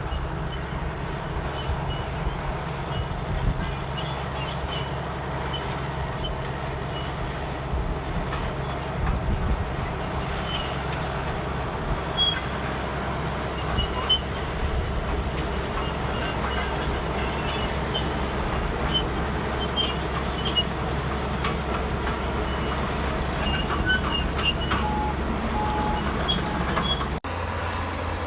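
Komatsu D65EX crawler bulldozer's diesel engine running steadily under load, with scattered squeaks and clinks from its steel tracks. The sound changes abruptly shortly before the end.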